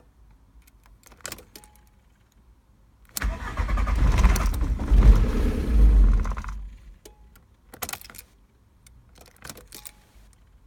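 Starter motor cranking a VW Golf Mk3's 1.9 TDI diesel engine for about three and a half seconds without it catching: the car won't start. There are short clicks before and after, such as from the ignition key.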